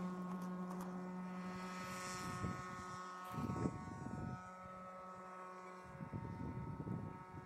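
Radio-controlled model tow plane's motor running steadily with a propeller drone in flight, slowly fading, with gusts of wind on the microphone about three seconds in and again near the end.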